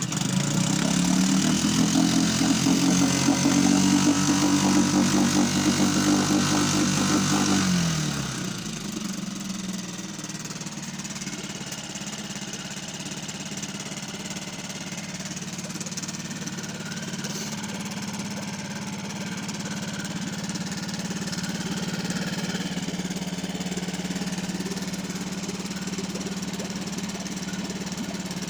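Mercury 5 hp four-stroke outboard motor catching and revving up, running fast for about eight seconds, then dropping to a steady, quieter idle.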